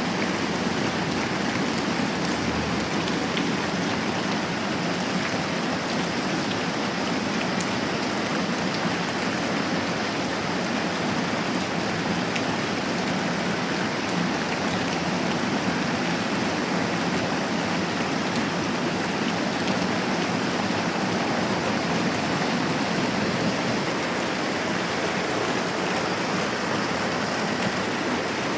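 Steady moderate rain, an even hiss without pause.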